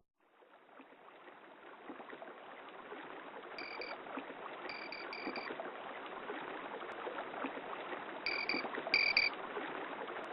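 Running water, a steady rushing hiss that fades in over the first couple of seconds, with short high chirps in small clusters twice: once a few seconds in and again near the end.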